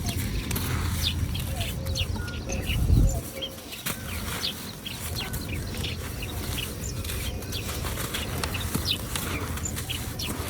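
Dry red dirt crumbling onto wet paste in a steel tub: a steady low crumbling rumble with scattered small crackles. There is one heavy thump about three seconds in.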